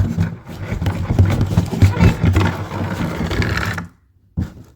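Toy monster truck clattering and rattling along a plastic Hot Wheels track, cutting off abruptly about four seconds in.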